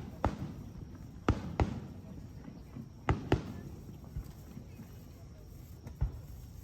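Fireworks display: a series of sharp bangs, several coming in pairs a fraction of a second apart, over a low background murmur.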